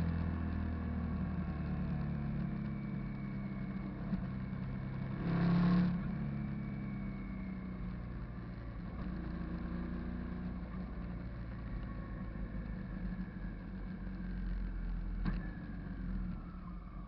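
Hyosung GV650 cruiser's V-twin engine running on the move, its pitch drifting slowly up and down with road speed. A brief louder rush comes about five seconds in.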